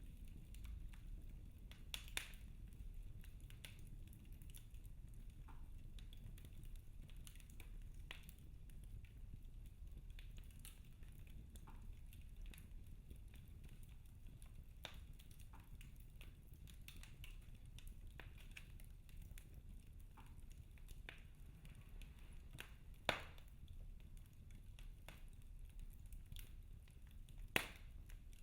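Logs burning in a fireplace, crackling faintly over a low steady rumble of the flames, with scattered small pops and two louder sharp snaps near the end.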